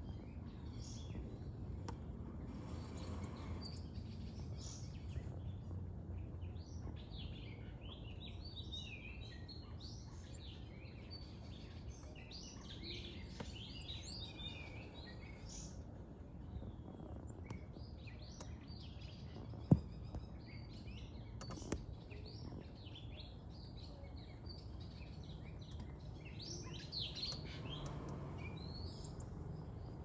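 Small birds chirping over and over, many short high chirps, over a low steady background rumble. A single sharp click stands out about twenty seconds in, with a fainter one shortly after.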